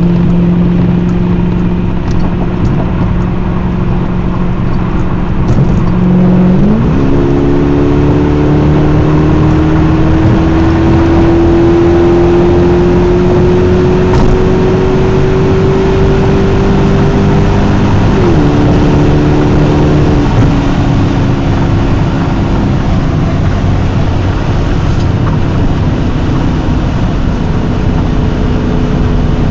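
1997 Lexus SC400's 4.0-litre V8 running under way. Its note jumps up about six seconds in and climbs slowly for some ten seconds, then drops in two steps about a second or two apart.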